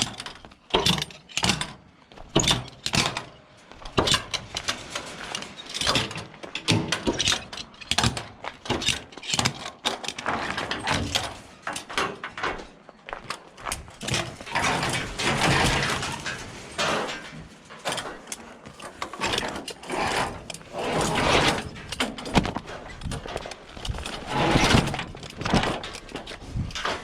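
Irregular clanks, knocks and rattles of metal hardware being worked by hand on a truck trailer, with denser scraping and rattling stretches partway through.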